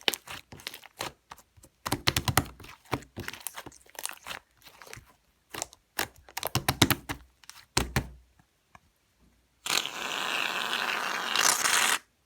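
Shaving foam being squished and worked by hand, a run of crisp crackling, squelching sounds; about ten seconds in, a steady hiss for about two seconds that cuts off suddenly, as from the aerosol can spraying out more foam.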